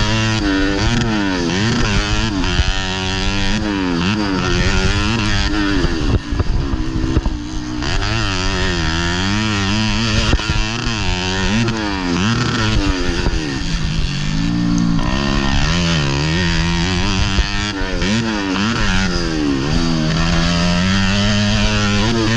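Modified underbone (bebek) race motorcycle's engine heard from on board, revving up and falling back again and again as the throttle is opened and closed, with a short easing-off about six seconds in.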